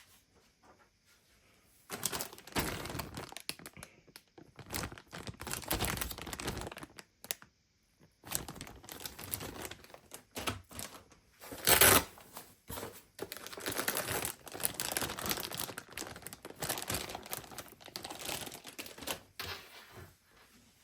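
Crinkling and rustling with scattered clicks, as of plastic being handled, in irregular bursts. The loudest burst comes about twelve seconds in.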